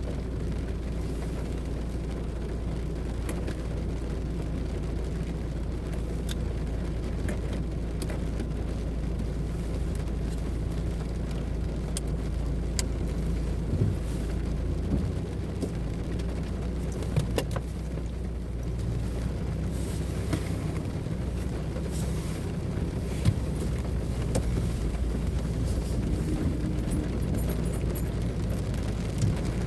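Car interior on a rainy drive: a steady low hum of the engine and road, with scattered sharp taps of rain on the car.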